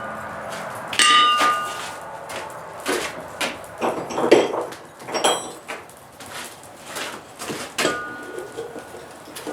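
Irregular hammer blows on steel at the anvil, about ten strikes at uneven spacing. The anvil rings on a few of them, loudest about a second in.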